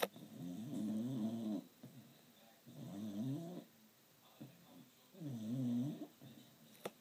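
A dog snoring: three long snores about two and a half seconds apart, each about a second long and wavering up and down in pitch. A short click at the very start.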